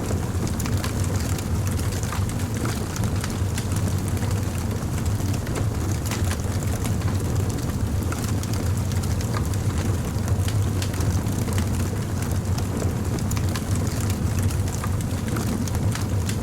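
Fire crackling: many small, irregular sharp pops over a steady low rumble.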